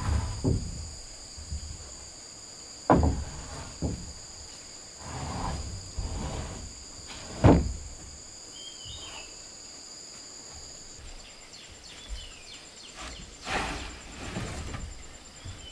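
Occasional sharp wooden knocks and thuds from work on a wooden floor, three of them loud and a few seconds apart, with softer shuffling between. Insects drone in the background as two steady high tones, which change to a fast pulsing chirp about two-thirds of the way through.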